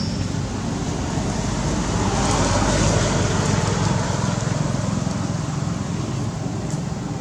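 Road traffic: a steady low engine hum with road noise that swells about two to four seconds in and slowly fades, like a vehicle passing.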